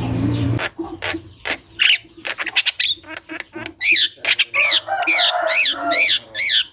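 Javan myna (jalak kebo) calling without pause: first a varied run of harsh squawks and clicks, then from about four seconds in a string of repeated rising-and-falling squawks, about two a second.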